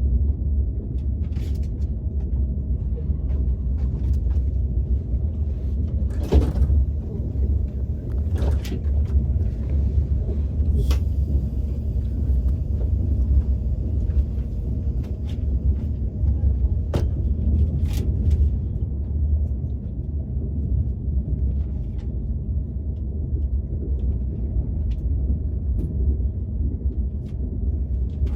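Steady low rumble of a KTX high-speed train running, heard from inside the passenger car, with a few short clicks scattered through it.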